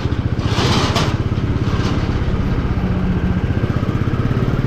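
Motorcycle engine running on the move, heard from the rider's seat as a steady, fast pulsing exhaust beat. A brief rush of wind noise comes about half a second in.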